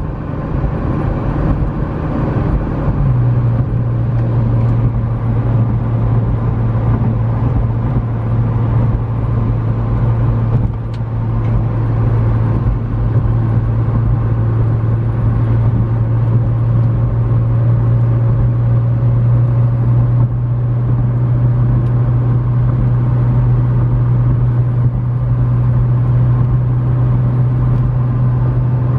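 McLaren 650S twin-turbo V8 cruising at highway speed over steady road and wind noise. The engine note drops about three seconds in, then holds a steady low drone.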